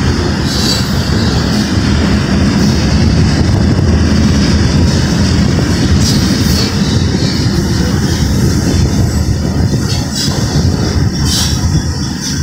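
Covered hopper cars of a Union Pacific cement train rolling past: a steady rumble of steel wheels on the rails, with a few brief high-pitched wheel squeals.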